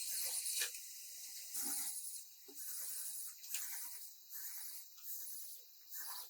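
Hissing noise that breaks off and resumes every second or so.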